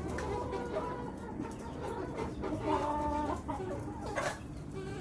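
A flock of chickens clucking, with several overlapping drawn-out calls in the middle and a short sharp click about four seconds in.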